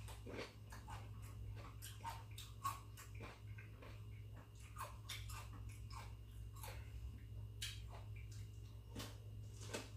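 A person chewing food close to the microphone: irregular small clicks and smacks of the mouth and teeth, over a steady low hum.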